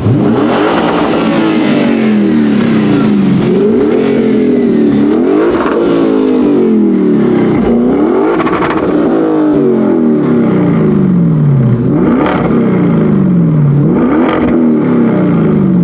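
Audi RS6 C7's twin-turbo V8, with a decatted Akrapovic exhaust, running hard under acceleration. Its pitch climbs and drops again and again through the gears, with a few sharp cracks.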